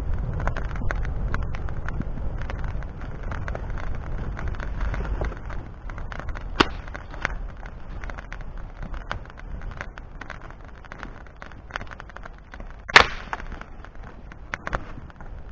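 Wood fire crackling, with scattered sharp snaps and one loud pop near the end, over a low wind rumble on the microphone that fades during the first half.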